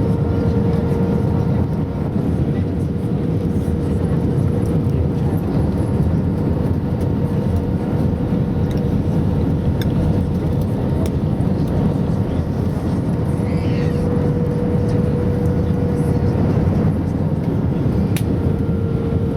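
Airbus A320 passenger-cabin noise on approach: the steady rumble of engines and airflow heard from a window seat. Through it runs a faint steady hum that fades out and comes back.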